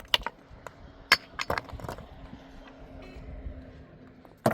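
Hard objects knocking and clinking together in a series of sharp, irregular knocks, the loudest just over a second in and another near the end, with a faint steady hum beneath in the second half.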